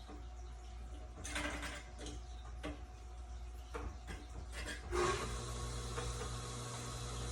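A few irregular clicks and knocks of plastic dehumidifier parts being handled and fitted. About five seconds in, a steady machine hum with a hiss starts and keeps running.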